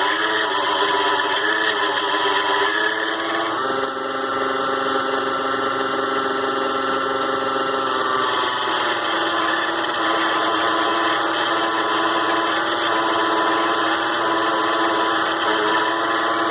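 Mini lathe's small DC motor running with a steady whine while turning an aluminium part. The pitch shifts about three and a half seconds in and again about eight seconds in.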